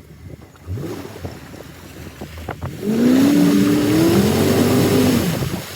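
Range Rover engine revved hard for about two and a half seconds, starting about three seconds in, its pitch wavering, with a loud rushing noise alongside: the car is stuck in deep mud and trying to pull out. A few knocks come before it.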